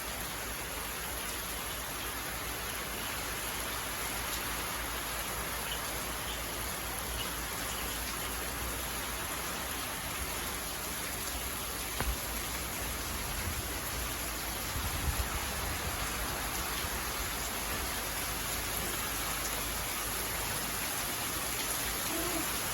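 Steady rain falling, an even hiss of drops with a few faint low thumps.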